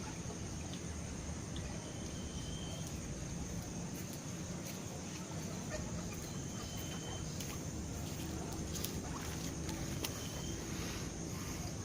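Rural village ambience: a steady high-pitched drone over a low rumble, with three short high whistles and a few faint clicks toward the end.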